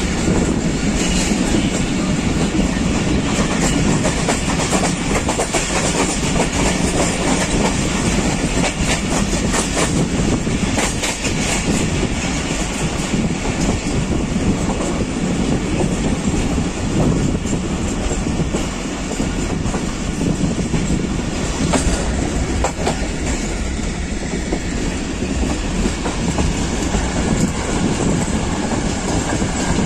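Passenger train running at speed, heard through an open coach window: a steady rumble and rush of air, with wheels clacking over the rail joints here and there.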